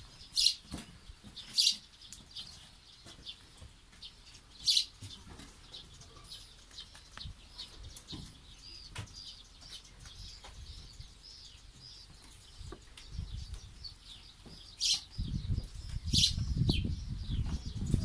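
Small birds chirping and twittering throughout, with a few short, louder chirps standing out. A low rumbling noise on the microphone comes in near the end.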